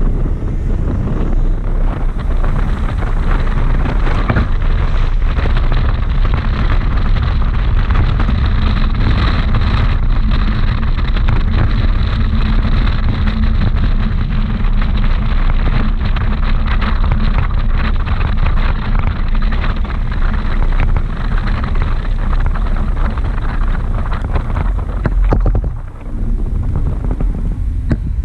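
Wind buffeting a GoPro's microphone on the roof of a moving car: a loud, steady rush and low rumble, easing briefly near the end.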